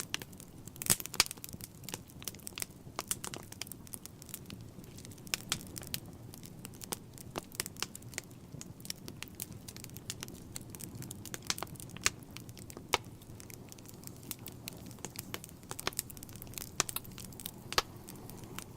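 Wood fire burning in a fireplace: constant irregular crackling and sharp pops over a steady low rumble of the flames, with the loudest pops about a second in and about twelve seconds in.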